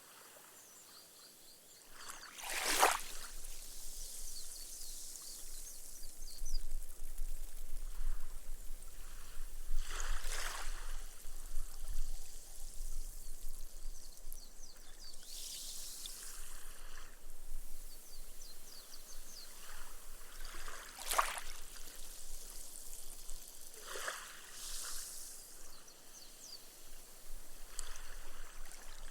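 Small, gentle waves lapping onto a sand beach. Each wash is followed by a fizzing hiss as the water soaks into the sand and the foam bursts. After an almost quiet first two seconds, about six washes come every four to seven seconds.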